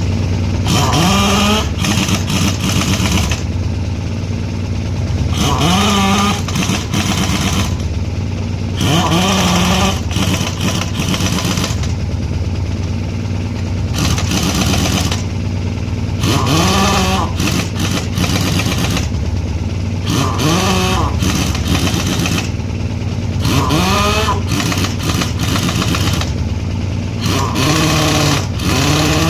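Pneumatic impact wrench working truck wheel nuts in about seven bursts of one to two seconds, each spinning up with a rising whine and a hissing rattle. A steady low engine or compressor hum runs under them throughout.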